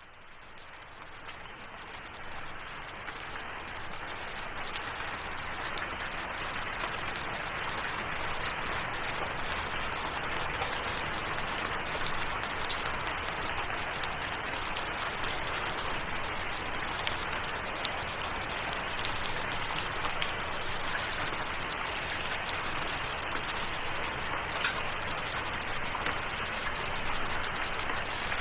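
Steady rain falling, with scattered sharp drip ticks, fading in from silence over the first few seconds.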